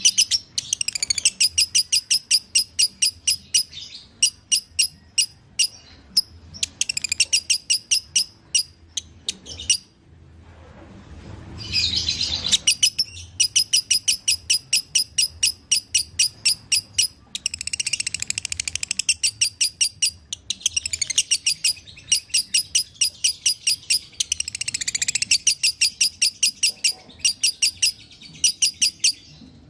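A lovebird's long chattering song (ngekek): long runs of rapid, shrill, evenly repeated chirps. The song breaks off twice early on, then runs almost without pause for the last two-thirds.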